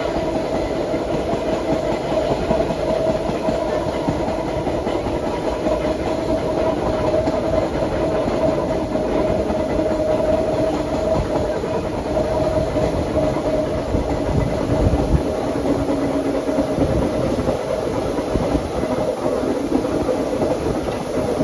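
Vintage BMT BU gate subway cars running along the track, heard from on board: wheels clacking over rail joints under a continuous rumble, with a steady whine.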